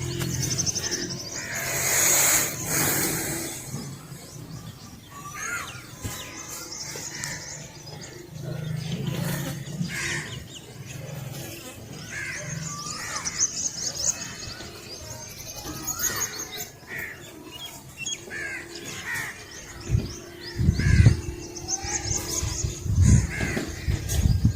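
Village dawn chorus: many small birds chirping and trilling, with crows cawing. There is a brief loud rush of noise about two seconds in, and loud low rumbles near the end.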